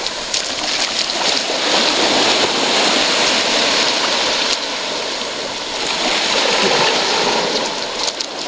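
Surf washing up and draining back on a sandy beach: a steady rush of water that swells twice.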